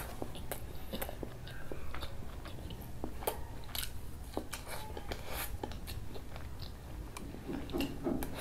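Close-miked mouth sounds of a person eating dal puri and curry by hand: chewing with many short smacks and clicks of the lips and mouth.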